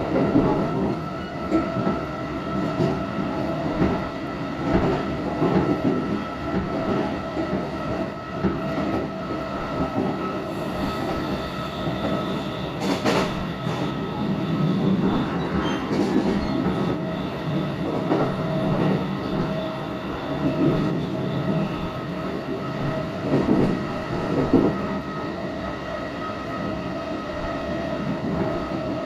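Electric commuter train running, heard from inside the carriage: a steady rumble of wheels on track with a constant high whine over it. There is a sharp knock about 13 seconds in.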